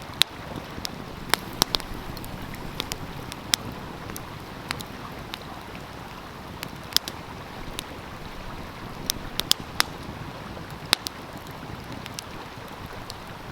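Wood fire crackling, with sharp pops at irregular moments, over the steady rush of a flowing stream.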